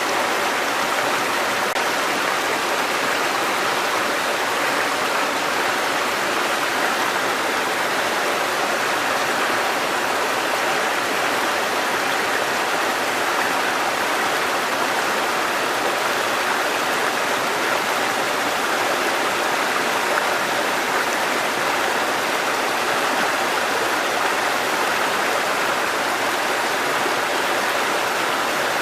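Water cascading over rocks in a mountain stream: a steady, even rushing that does not change.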